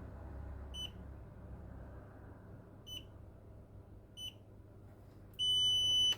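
A digital multimeter's beeper in continuity mode, probing for short circuits: three short beeps, then a longer steady beep near the end.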